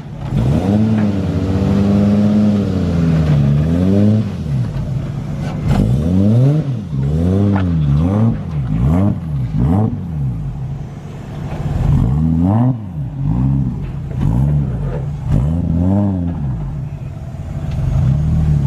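A car engine being revved: it is held up at revs for a couple of seconds, drops, then is blipped again and again, each rev rising and falling in pitch about once a second before settling back to idle.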